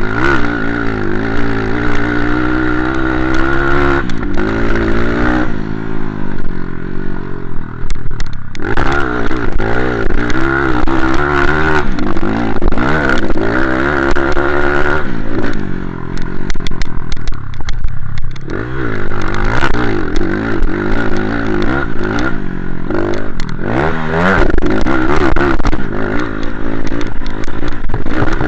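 Motocross bike engine revving, its pitch rising and falling over and over as the throttle is opened and closed.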